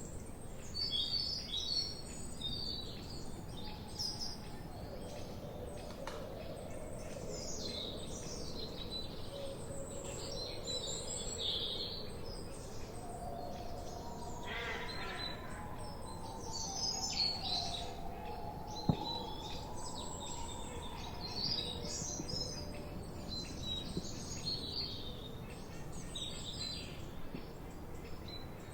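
Several songbirds chirping and singing over a steady background hiss, with high, quick chirps and trills throughout and some lower, longer notes in the middle. A single sharp click about two-thirds of the way in.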